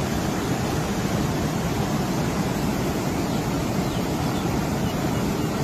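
Steady, loud rushing of water, an even roar with no breaks.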